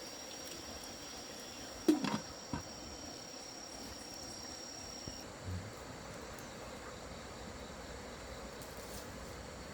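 Insect trilling with a steady high note that stops about halfway through. About two seconds in comes a sharp clatter, the loudest sound, with a smaller knock just after it and a faint low thud a few seconds later.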